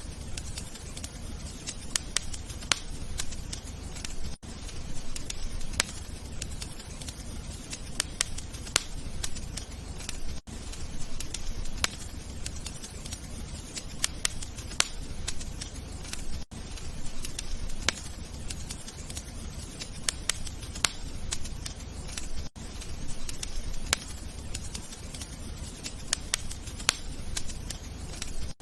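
Wood fire burning in a fireplace: a steady low rumble with irregular sharp crackles and pops. The level dips briefly about every six seconds.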